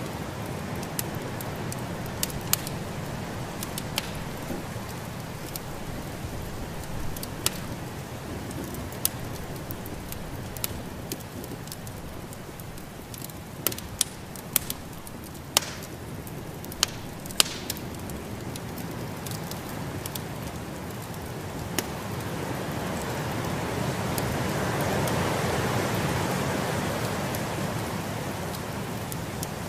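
Wood fire in a fireplace crackling, with irregular sharp pops, over the steady rush of snowstorm wind that swells and fades about two-thirds of the way through.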